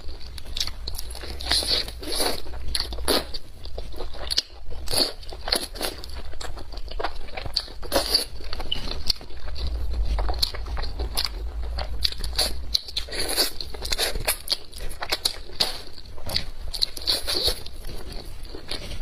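A person chewing and biting food close to the microphone, with many short irregular bites and chews one after another over a steady low hum.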